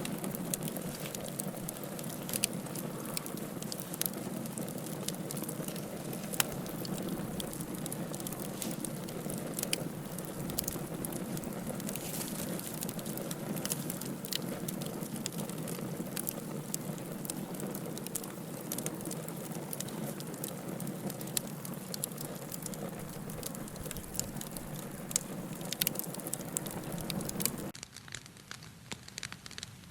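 Wood fire in a fireplace crackling, with a steady hiss and frequent sharp pops. Near the end the sound drops suddenly to a quieter, thinner crackle.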